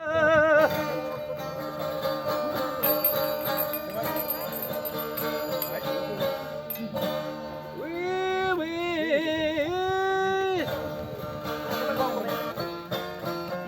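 Live acoustic music: a plucked string instrument playing, with long held notes wavering in pitch about two-thirds of the way through.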